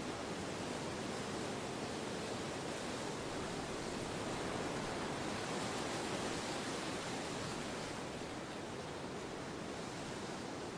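Steady wind, an even rushing noise that swells slightly midway and eases a little near the end.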